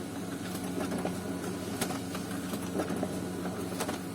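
Kyocera ECOSYS M2030 laser printer running as it prints a test page: a steady mechanical hum with a few light clicks.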